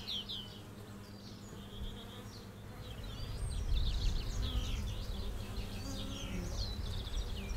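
Small birds chirping and trilling in quick, high-pitched phrases, over a low outdoor rumble that swells about halfway through.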